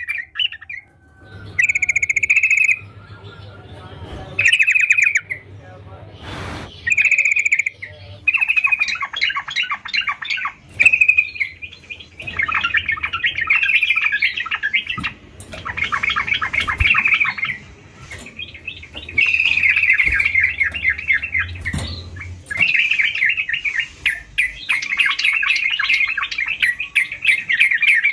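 Yellow-vented bulbul singing. It gives short phrases every couple of seconds at first, then, from about halfway, long rapid runs of chattering notes that follow almost without a break.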